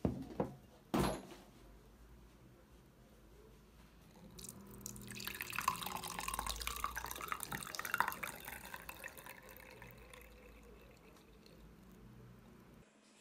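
Liquid running from a tap fitted into a watermelon and splashing into a container. The stream builds up about four and a half seconds in and tapers off around ten seconds. There are a few sharp clicks in the first second.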